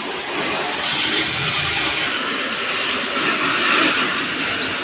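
Pressure-washer water jet spraying with a steady hiss.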